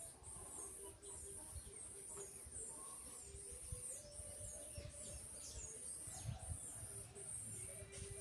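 Small birds calling with quick, high chirps that fall in pitch, over a faint high buzz that pulses a little more than once a second.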